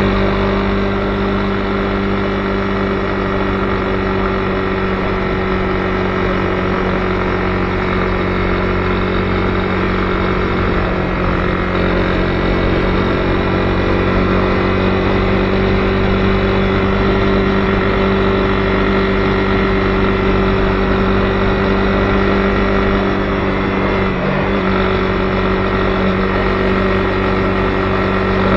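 Honda CB250R's single-cylinder four-stroke engine running at a steady cruise while riding, holding one even note over a rush of road noise. Near the end the note briefly dips, then settles again.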